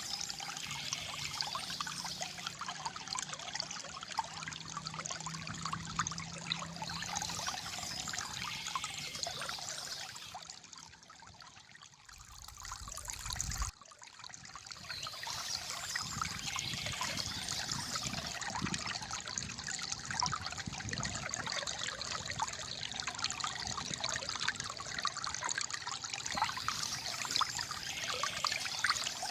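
Shallow water trickling and gurgling steadily over stones. It dips quieter about eleven seconds in and comes back suddenly at about fourteen seconds.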